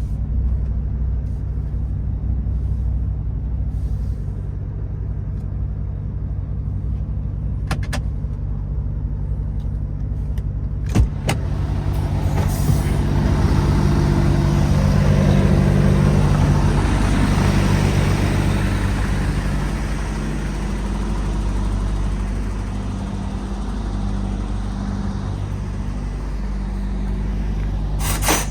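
A truck's diesel engine running steadily. About eleven seconds in there is a click, then a hiss and the engine noise swell and ease off again, with another click near the end.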